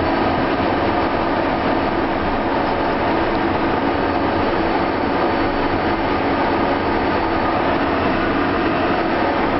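Cessna Citation CJ2+ business jet's twin Williams FJ44 turbofans and airflow making a loud, steady rush, with a few steady tones running through it.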